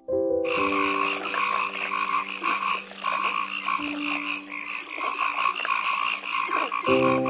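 Frog croaking: a steady run of rapid, repeated croaks.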